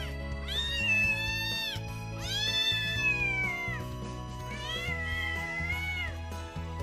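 Young mackerel-tabby cat meowing three times: long, drawn-out meows of about a second or more each, over background music.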